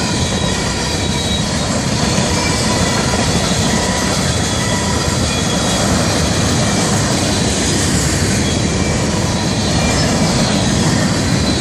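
Freight cars of a Florida East Coast Railway train rolling past close by: a steady loud rumble of steel wheels on rail, with thin high-pitched wheel squeal, mostly in the first half.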